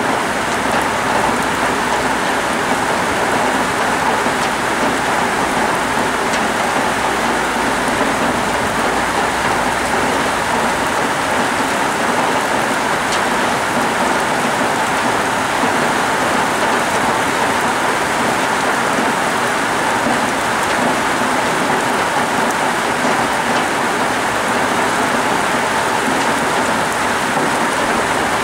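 Heavy tropical rain falling steadily, a continuous even hiss of downpour.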